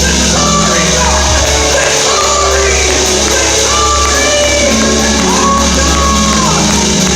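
Loud live church music: voices singing and calling out over a steady, sustained bass or organ accompaniment, in a large, reverberant hall.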